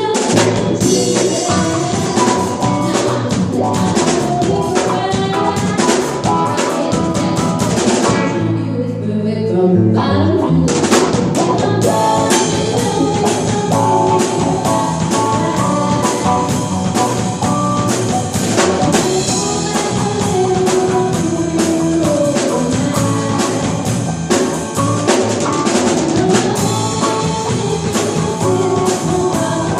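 Live band playing a pop cover with a full drum kit, rimshots on the snare and a steady beat. About eight seconds in, the drums drop out for roughly two seconds, then the band comes back in.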